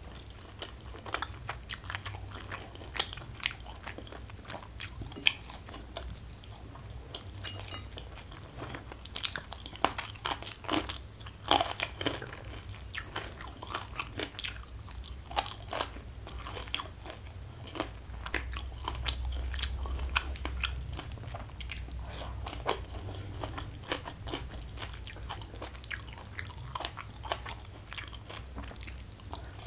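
Close-miked mukbang eating sounds: a person chewing mouthfuls of a rice meal, with many irregular sharp crunches and crackles from crisp bites, thickest from about ten to sixteen seconds in.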